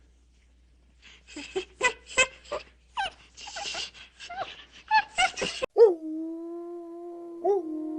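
A canine gives quick high yelps and whimpers for about five seconds. After a sudden cut, one long steady howl follows and swells briefly near the end.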